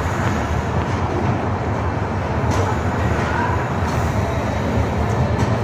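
Passenger train running along a station platform, heard from on board: a steady low rumble of wheels on rail, with a few faint clicks.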